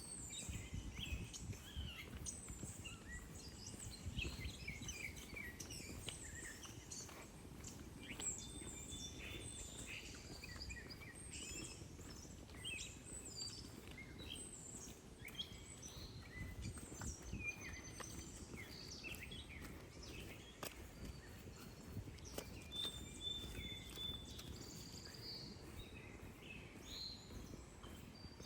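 Many small birds chirping and twittering, with quick short calls and gliding notes that overlap throughout, over a steady low outdoor rumble.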